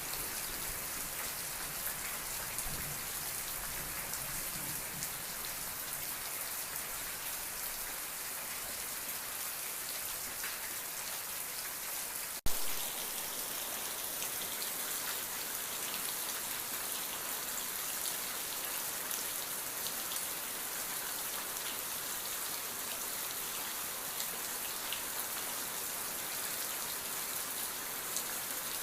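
Steady rain falling on a surface, an even hiss of drops. A single sharp click about twelve seconds in.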